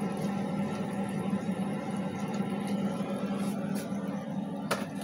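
Marinated chicken cutlets sizzling in a nonstick frying pan, an even hiss with faint crackles over a steady low hum. A sharp click near the end.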